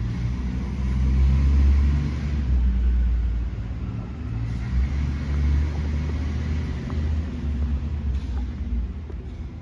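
Truck engine running with a low rumble that swells and eases a few times.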